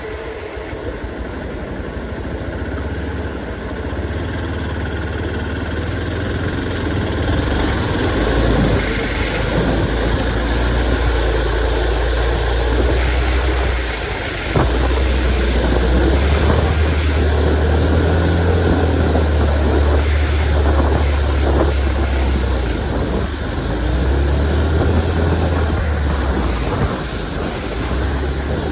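Hero XPulse 200 4V's single-cylinder engine running as the motorcycle is ridden, its low note dipping briefly about halfway through and then holding steady. Wind hiss on the microphone grows after a few seconds.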